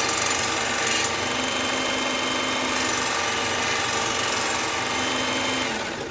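Powered belt knife sharpener running, a kitchen knife being stropped on its compound-loaded felt belt to take off the last of the burr: a steady motor hum under a grinding hiss that swells as the blade presses in. The machine winds down near the end.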